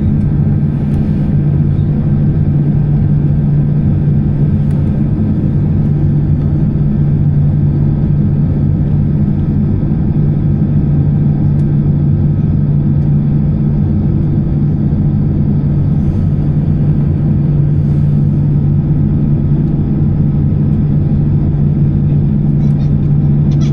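Airbus A320-214 cabin noise: the CFM56 engines and airflow make a steady, loud low drone, heard from inside the passenger cabin. A few faint ticks come near the end.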